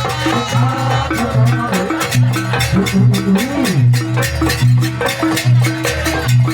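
Live Banyuwangi jaranan ensemble music: a steady beat of drums and struck percussion under held low notes, with a melody line that slides in pitch.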